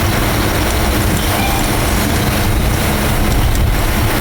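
Steady, loud mechanical drone with a low hum and a noisy hiss, unchanging throughout, like machinery running in the workshop.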